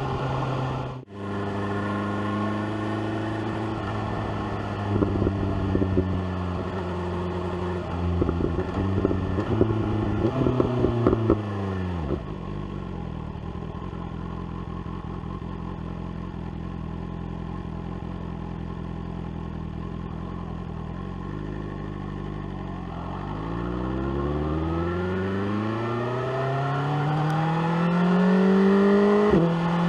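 BMW S1000R's inline-four engine through an SC-Project exhaust. It holds steady revs with bursts of loud crackling, then the revs fall away about twelve seconds in to a low steady idle. After roughly ten seconds it climbs again under acceleration, with an upshift near the end.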